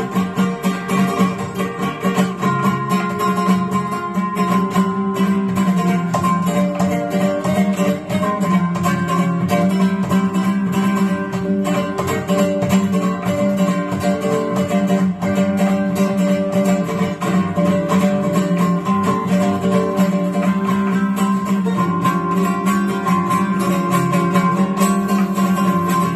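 Guitar playing a continuous stream of fast plucked notes.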